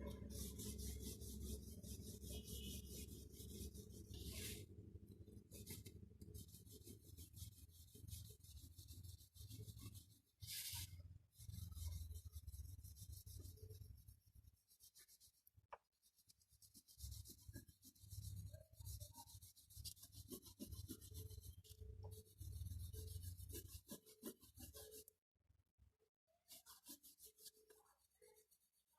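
Faint, rapid back-and-forth strokes of a drawing tool rubbing on paper, as in colouring or shading, with short pauses and a brief stop near the end.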